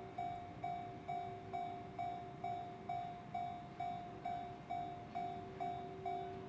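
Railway level-crossing warning alarm ringing, an even ding about twice a second.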